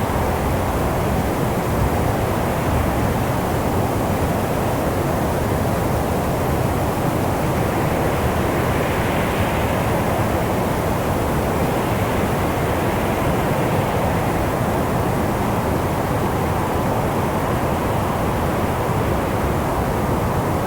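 Steady, low rushing wind with no gusts or breaks, swelling slightly about nine to eleven seconds in.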